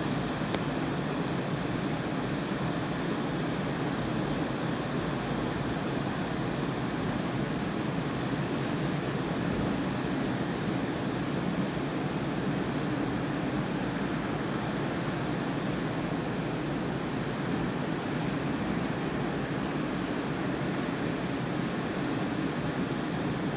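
Steady rushing background noise with no distinct events, such as distant traffic, wind or recorder hiss; no thunder is heard. A faint high pulsing tone runs through it.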